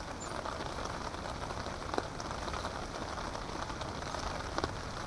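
Rain falling on a tarp shelter overhead: a steady hiss of light rain with a few louder single drops striking.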